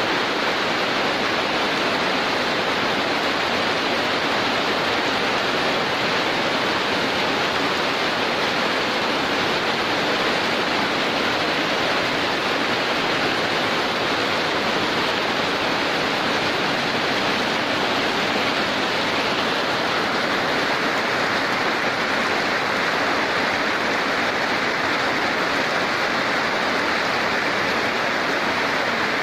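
Heavy rain pouring steadily, a dense even hiss with no separate drops or other events. The hiss grows slightly sharper about two-thirds of the way through.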